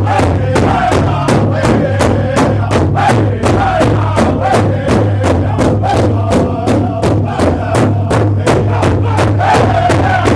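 A group jamming: loud music with a fast steady beat, a sustained bass note underneath, and voices that chant or shout along.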